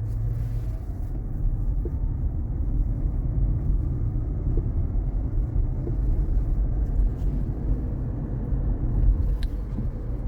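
Steady low road rumble and tyre noise heard inside a moving car's cabin, growing louder over the first few seconds, with a few faint ticks.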